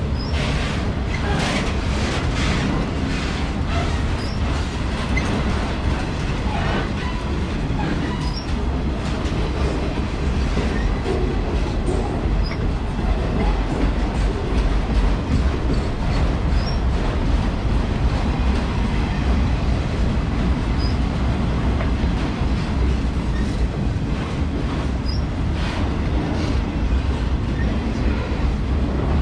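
Auto rack freight train rolling past with a steady heavy rumble of wheels on rail. Clusters of rapid wheel clicks over rail joints come in the first few seconds and again near the end, with faint brief squeals from the wheels.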